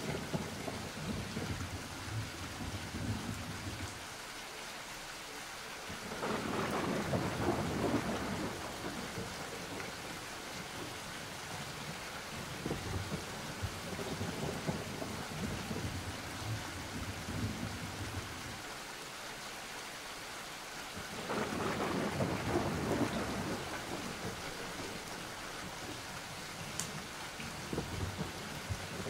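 Thunderstorm ambience: steady rain with two long swells of rolling thunder, one about six seconds in and another about twenty-one seconds in.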